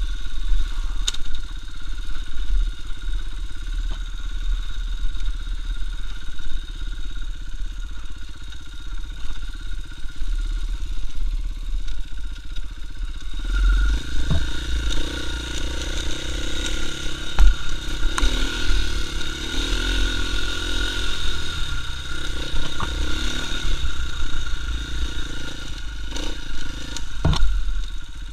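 KTM EXC 450 enduro motorcycle's single-cylinder four-stroke engine running as the bike is ridden along a dirt trail. It gets louder about halfway through. A few sharp knocks and clatters come from the bike jolting over the rough ground.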